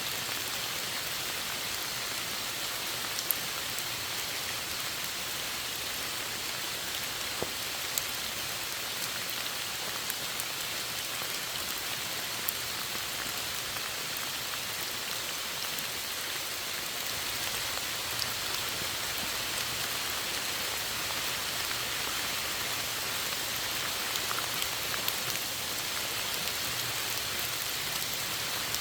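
Steady rain falling, an even hiss with scattered louder drops tapping nearby.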